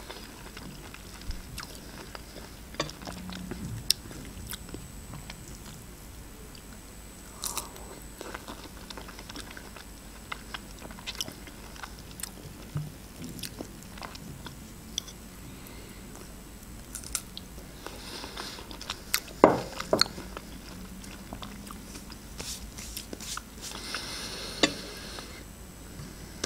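Close-up chewing and biting of fresh strawberries dipped in melted chocolate: soft wet mouth sounds with scattered small clicks and smacks, and one sharper click about two-thirds of the way through.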